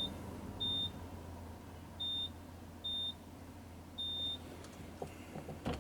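Car wash code keypad beeping five times as the wash code is keyed in: short, high single-pitch beeps about a second apart.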